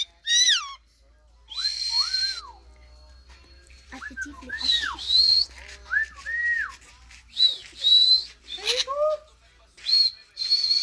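Pet parrot calling in a run of short, high whistles and raspy squawks. The notes glide up and down in pitch and come about once or twice a second, with short gaps between them.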